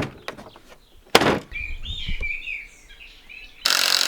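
Two sharp knocks about a second apart, then small birds chirping. Near the end a power tool starts running steadily and loudly.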